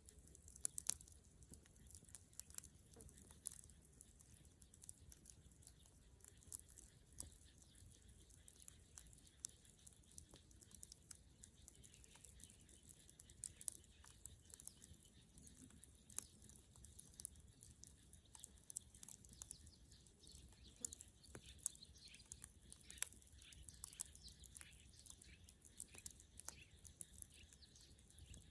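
Bonfire of dry dead wood crackling: irregular sharp pops and snaps scattered throughout over a faint hiss.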